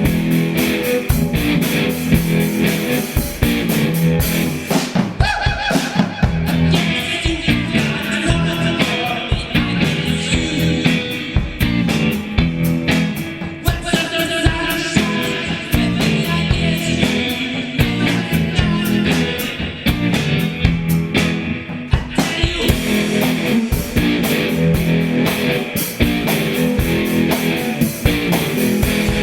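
Rock music: distorted electric guitar over a steady drum kit beat, the drums easing off for a stretch in the middle.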